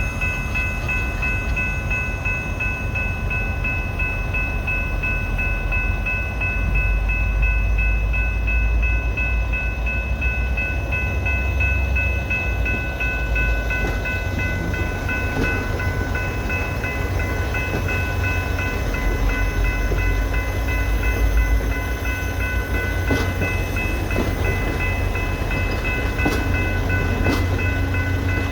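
VIA Rail F40PH-2 diesel locomotives running: a steady low engine rumble with a steady high-pitched whine over it, and a few faint clicks near the end.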